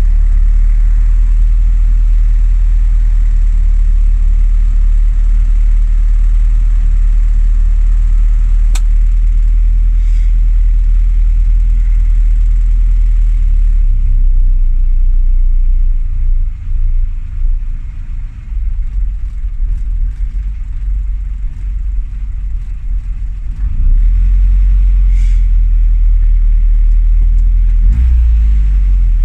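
Classic Mini's A-series engine running after three months standing unused, a steady low idle that turns uneven and drops for several seconds partway through before settling back to steady.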